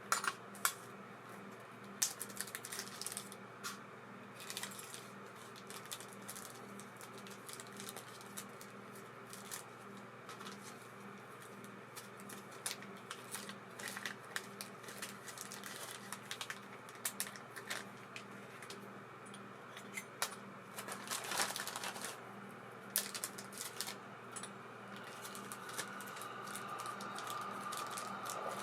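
Small metal parts of an ABU Ambassadeur 2500C De Luxe baitcasting reel clicking and tapping irregularly as it is handled and worked on, over a steady low hum. A steady higher tone builds near the end.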